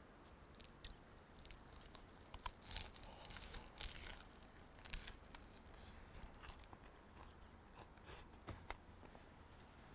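Faint crunching of a person biting into and chewing a sandwich of crispy grilled bread and cornmeal-crusted fried tomato, with the loudest crunches in a cluster between about three and five seconds in and softer chewing clicks after.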